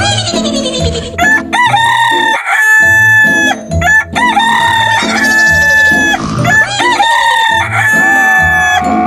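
A rooster crows over and over, about four long crows, each rising and then held on a steady pitch. Under it runs a music track with a steady beat, a meme-style remix.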